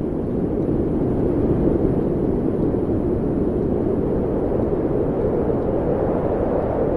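Steady low rumbling noise with no tones or rhythm.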